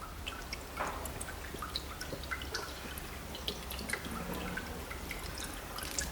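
Light, irregular small clicks and ticks, a few each second, over a faint steady background.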